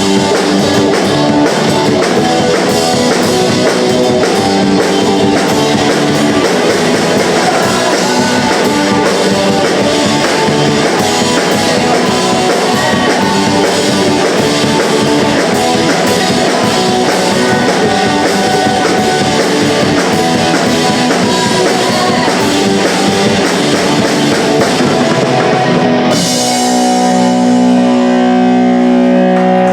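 Live punk rock band playing with electric guitars and drums. About 26 seconds in, the drums stop and held guitar chords ring out to end the song.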